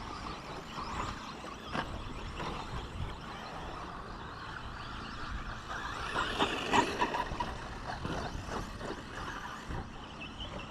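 Radio-controlled short course trucks racing on the track: a steady mix of motor and tyre noise, with a few sharp knocks and a louder clatter a little past the middle.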